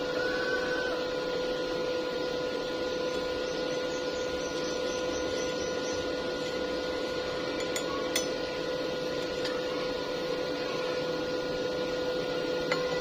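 Electric welding arc crackling and hissing steadily, with a steady electrical hum under it, and a sharp tick or two about eight seconds in.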